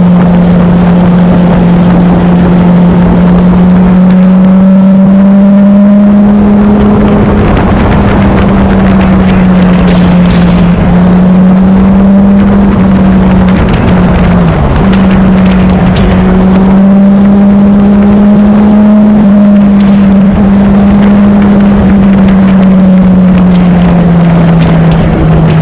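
Motorcycle engine running loud and steady at cruising speed, its drone drifting slightly up and down in pitch with one brief dip about halfway through, over a constant rushing noise.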